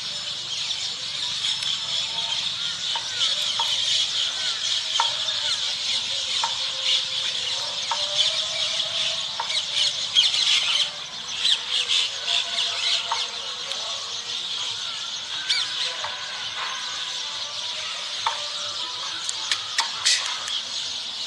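Many birds chirping and calling at once, a dense, continuous chatter with short rising chirps scattered through it.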